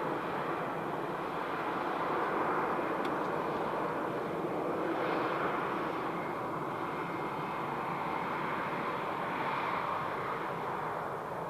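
Airbus A321-211 jet engines (CFM56-5B) running: a steady rushing jet noise that slowly swells and fades, easing slightly near the end.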